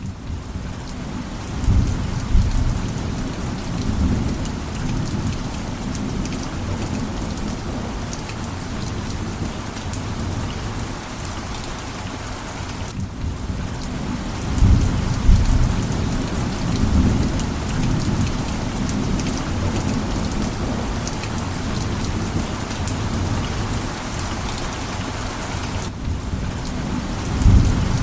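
Heavy rain falling on an old tin roof: a dense steady hiss full of fine drop ticks. Several low thunder rumbles swell under it, the strongest around the middle and near the end.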